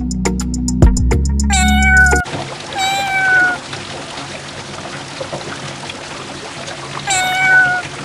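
Background music with a drum beat cuts off about two seconds in. A cat then meows twice, each call about half a second long and falling slightly in pitch, over a steady hiss.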